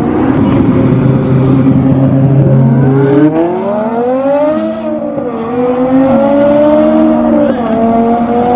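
Car engine running at a low steady note, then accelerating hard from about three seconds in, its pitch climbing and dipping as it changes up through the gears.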